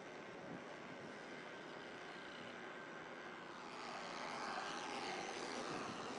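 Car stuck in a snowbank, its engine revving and a drive tire spinning in the snow without grip. The sound is faint and steady, then builds louder and higher about halfway through.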